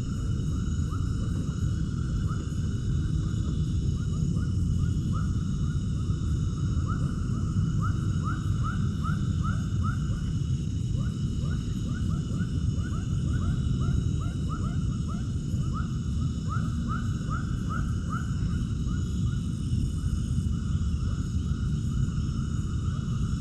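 An animal calling in runs of short, quick chirping notes, several a second, over a steady low rumble, with thin steady high-pitched tones behind.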